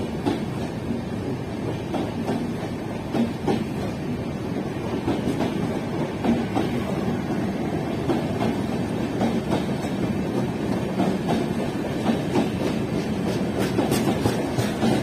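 Darjeeling Mail's red-and-grey LHB passenger coaches rolling past close by, their wheels clattering over the rail joints in a steady, continuous rumble with many short irregular clicks.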